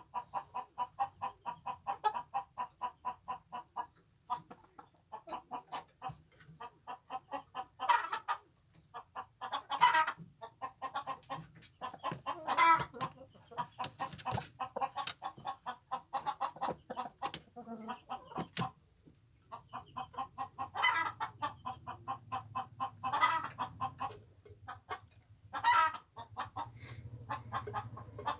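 Chickens clucking in fast, even runs, with louder, longer squawks breaking in every few seconds.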